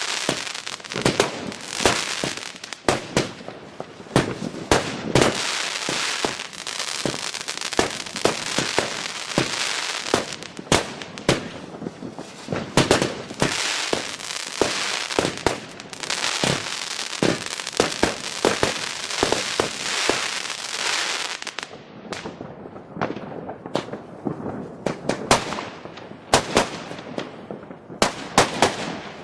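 Fireworks going off: a dense crackle packed with sharp bangs, thinning about three-quarters of the way through to separate bangs with short gaps between them.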